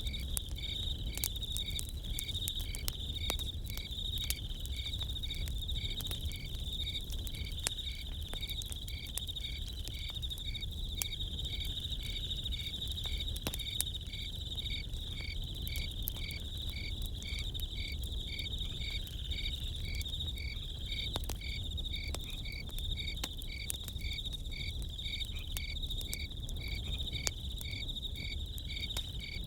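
Crickets chirping continuously in an even, rapid rhythm, over scattered sharp crackles and pops from a campfire.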